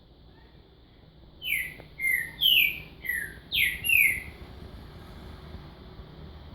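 A bird singing a quick phrase of six loud, sharply falling whistled notes, about a second and a half in, then stopping.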